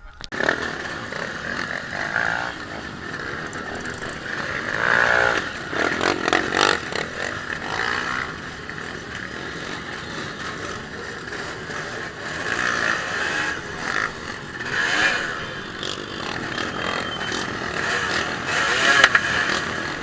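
Off-road dirt bike engine running, revving up and down several times.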